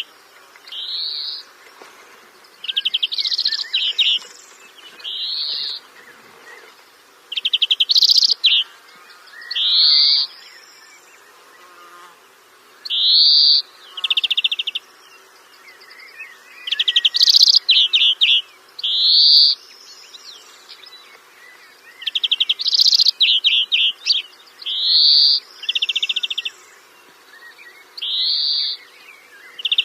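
A songbird calling over and over in short phrases a second or two apart, mixing quick rising notes with fast buzzy rattles.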